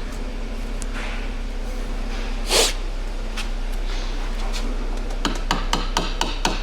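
A brief scrape about two and a half seconds in, then a run of quick hammer strikes, about four a second, starting about five seconds in: the CV joint being tapped back onto the axle shaft.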